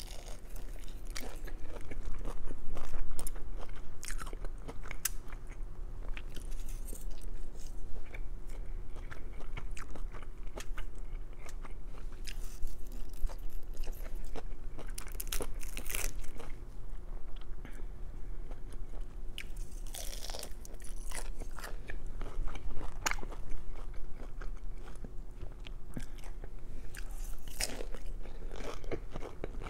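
Chewing and crunching of a crispy fried spring roll, with sharp crackles of the crisp wrapper scattered throughout.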